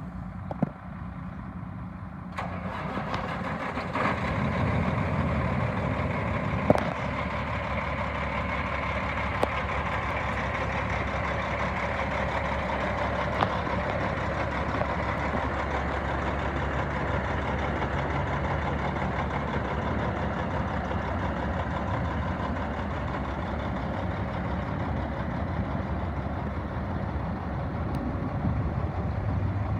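Diesel engine of a 2006 Freightliner Columbia truck tractor starting about two to four seconds in, then idling steadily. A couple of sharp clicks come over it early on.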